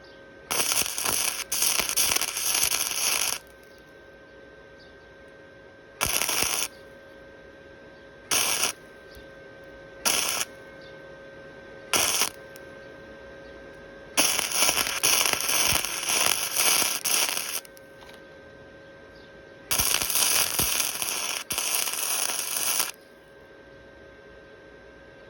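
Electric welder arc crackling on a motorcycle frame. It runs in three beads of about three seconds each and four short tacks. A steady hum carries on between them.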